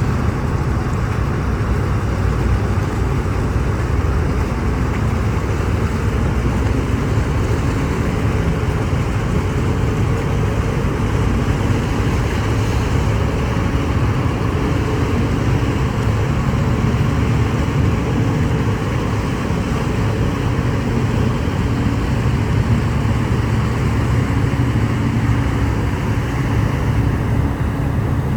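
Steady drone of the ferry Furutaka's engines while underway, with a continuous rush of wind and water against the ship.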